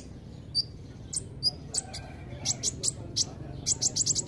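Kolibri ninja sunbird calling: short, sharp, high chirps, a few spaced ones and then a quick run of them near the end.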